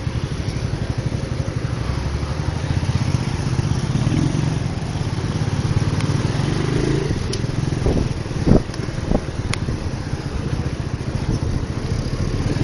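Motorcycle engine running at a steady pace while riding, with a rush of wind noise. A few short sharp knocks come about eight to nine seconds in.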